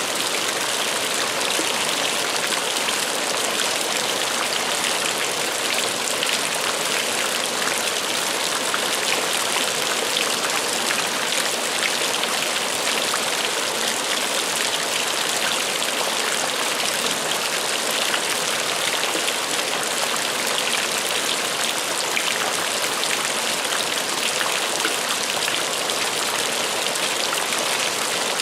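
Heavy rain falling steadily, an even hiss of many drops without let-up.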